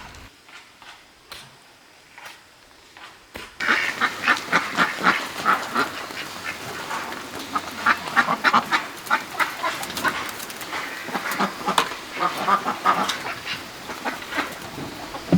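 Domestic ducks quacking, many short overlapping quacks from a flock. They start abruptly about three and a half seconds in, after a quiet stretch with a few faint clicks.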